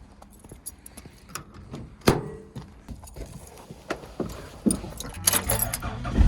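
Light metallic clinking and scattered knocks from paragliding harness gear being handled, with one louder knock about two seconds in.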